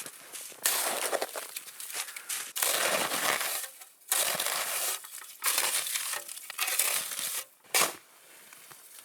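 Snow crunching in a series of separate crunches, each about half a second to a second long, with short pauses between them.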